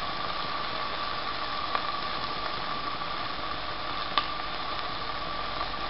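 Steady soft hiss of ham and cheese cubes frying in butter in a pan, with a faint constant high tone under it. Two light ticks come about two seconds in and about four seconds in.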